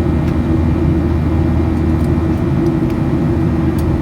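Airliner cabin noise during the climb after take-off: the jet engines and rushing air make a loud, steady drone with a constant low hum. A few faint ticks sound over it.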